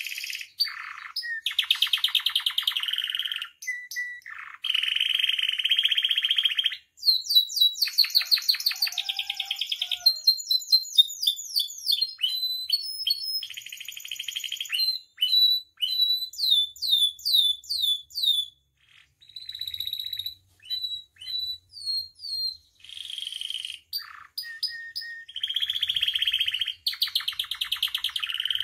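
Domestic canary singing a long, varied song: fast rolling trills, quick runs of repeated chirps and high whistled notes, with short breaks between phrases.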